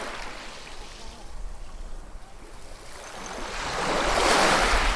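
Ocean waves breaking and washing ashore. A smaller wave subsides at the start, then a larger one builds from about three seconds in and is loudest near the end.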